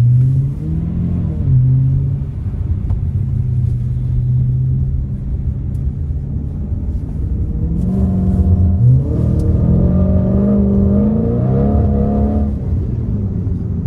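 Audi RS5's 4.2-litre V8 heard from inside the cabin while driving: it runs at a steady note for several seconds, then about eight seconds in it accelerates, its note rising in pitch, and eases off near the end.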